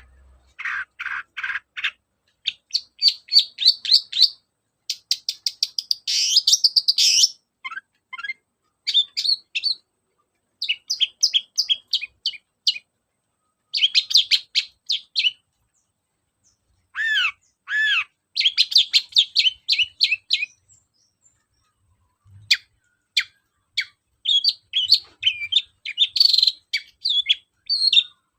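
Long-tailed shrike (cendet) singing: rapid runs of sharp, chattering notes in phrases of a second or two, with brief pauses between them.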